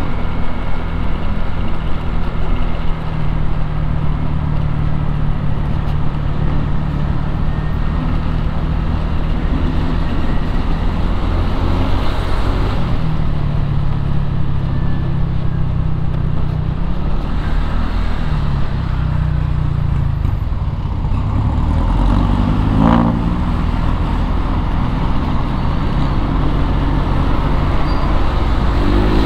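Motorcycle engine running amid road traffic noise, its note holding steady and shifting in pitch a few times. Another vehicle passes about three-quarters of the way through.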